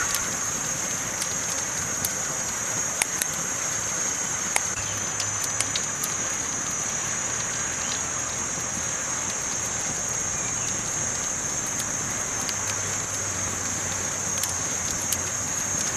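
Campfire burning: a steady hiss with scattered sharp crackles and pops, a few louder ones about three, four and a half and fifteen seconds in.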